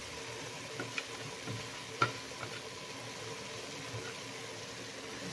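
Ground pork and freshly added white corn kernels sizzling in a pot, a steady frying hiss. A few faint clicks, the sharpest about two seconds in.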